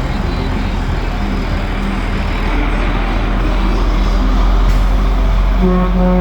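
Heavy trucks' engines rumbling as they drive past, growing a little louder. Near the end a truck's air horn starts blowing a steady chord.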